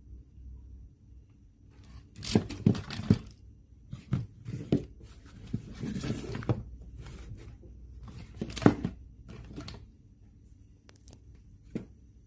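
Irregular rustling, scraping and clicking, as of hands working on parts during a repair. It starts about two seconds in and thins out to a few light clicks near the end.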